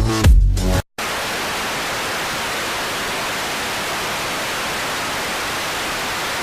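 Electronic music cuts off just under a second in, and after a brief gap a steady, even hiss of static, like white noise, runs at constant level.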